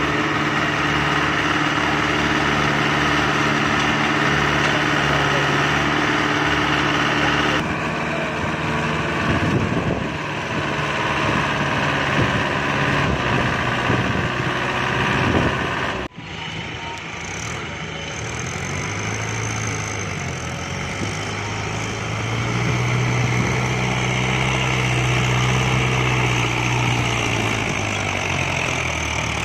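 Tractor engine running steadily, its note changing partway through. About halfway it cuts off abruptly and comes back, then the engine note rises and falls.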